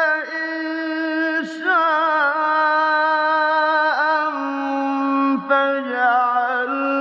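A single male voice chanting Quran recitation in a slow, melodic style. He holds long drawn-out notes with wavering ornaments, with a brief break about four seconds in and another near five and a half seconds.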